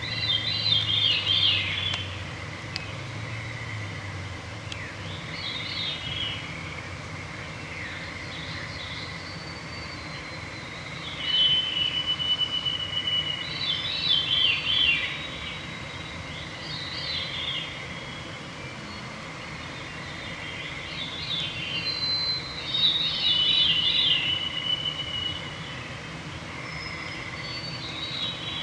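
Several songbirds singing: a repeated song phrase about every three seconds, some with a held high whistled note. A faint steady high trill runs underneath, and a low rumble is heard in the first couple of seconds.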